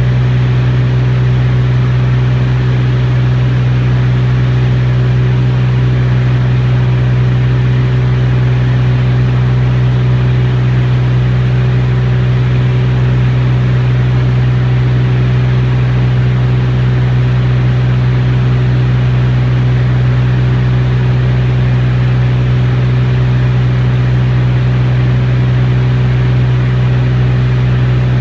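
Piston aircraft engine running with a steady, unchanging low drone at constant power, heard from inside the aircraft's cockpit.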